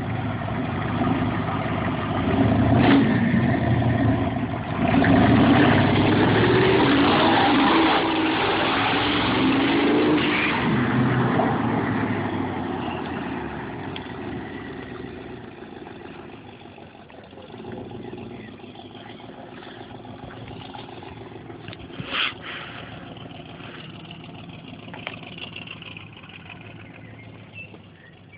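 Twin-turbo Dodge Dart running with no exhaust system, only an open temporary pipe, accelerating hard with its engine pitch rising and falling through the gears. The sound then fades steadily as the car drives away. There is one short, sharp pop about two-thirds of the way through.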